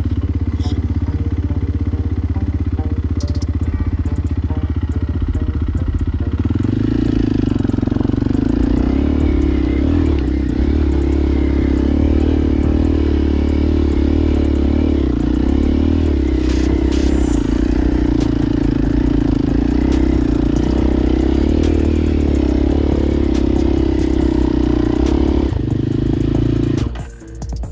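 Motorcycle engine running steadily under throttle. Its note steps up and grows louder about six seconds in, holds there, then drops off sharply near the end.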